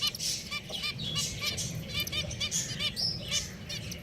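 Pet finches calling: a busy run of short, repeated high call notes, several a second and overlapping from more than one bird, over a steady low hum.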